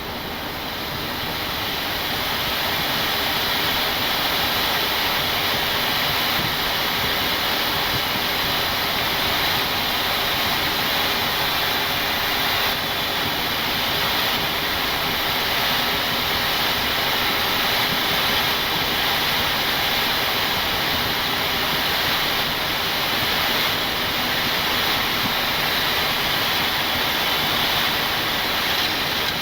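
Steady rushing airflow noise on the flight deck of a Boeing 737-800 climbing out after takeoff. It grows a little louder over the first few seconds, then holds even.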